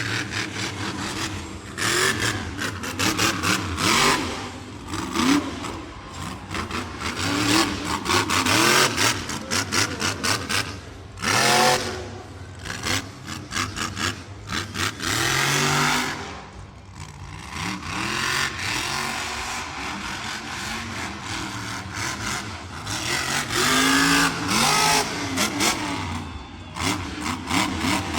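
Monster truck engine revving hard in repeated surges, its pitch climbing and dropping with the throttle, with a short lull about two-thirds of the way through.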